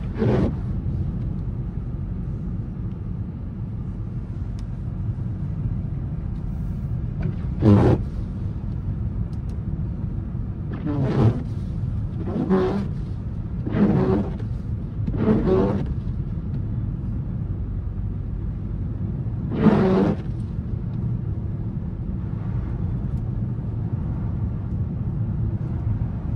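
Steady low rumble of a 2024 Volkswagen Atlas driving on a snowy road, heard from inside the cabin. A handful of short, louder sounds stand out, four of them evenly spaced about a second and a half apart midway through.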